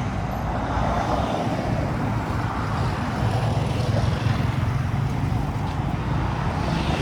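Street ambience: a steady rumble of road traffic.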